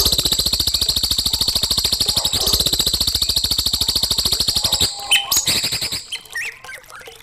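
A songbird's very fast, even rattling trill, held for about five seconds, then a few short chirps and whistles; recorded bird song of the kind played to teach young magpie-robins.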